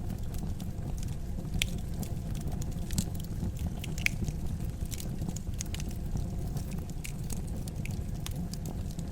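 Wood fire crackling in a fireplace: many irregular sharp crackles and pops over a steady low rumble, with a few louder pops about one and a half, three and four seconds in.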